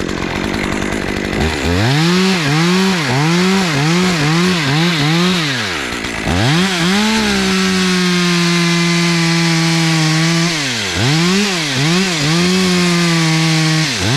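Chainsaw revved in a quick series of blips, then held at a steady high speed while cutting a conventional felling notch into a dead oak. A second round of blips and a second steady cut follow near the end.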